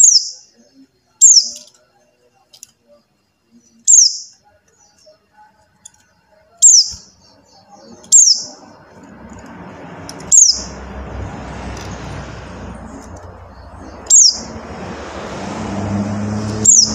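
Pleci buxtoni white-eye giving its call: about eight short, high, downward-slurred chirps spaced one to three seconds apart. From about halfway through, a rising rushing background noise with a low hum sits under the calls.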